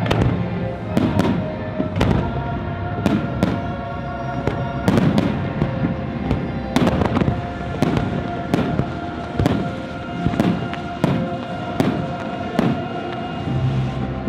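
Fireworks going off in quick succession, sharp bangs of shells launching and bursting about one or two a second, over the show's music playing through loudspeakers.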